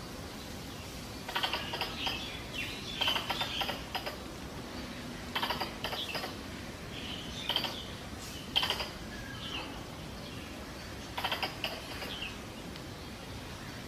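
Squirrel mating-season call used as a hunter's lure: irregular bursts of fast, ticking chatter, each lasting up to about a second, with pauses between them.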